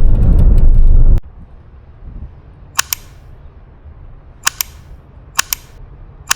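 Loud car road noise cuts off abruptly about a second in. After that, four sharp double clicks sound at uneven spacing over a quiet background.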